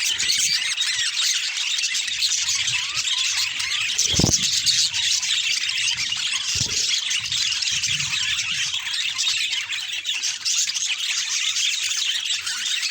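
Budgerigars chattering, a dense, unbroken stream of short high chirps and warbles. Two dull thumps sound a little way past the middle.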